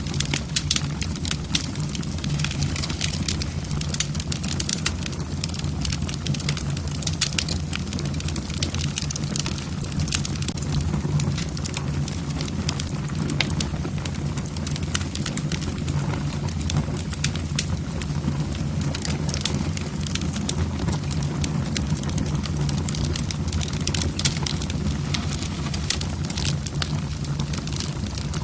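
Wood fire burning in a fireplace: logs crackling and popping with frequent sharp snaps over a steady low rumble of the flames.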